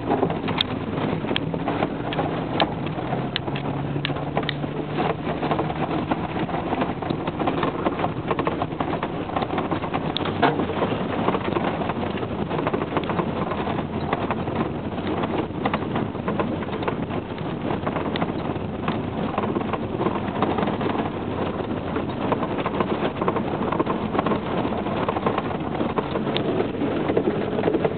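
Four-wheel-drive truck engine running under load off-road, its pitch rising a few seconds in, with scattered knocks and rattles throughout.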